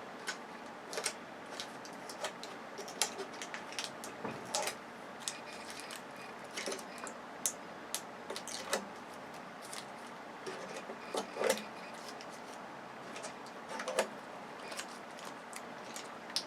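Irregular light clicks, taps and clatter of small parts being handled while a flat-screen TV is taken apart by hand.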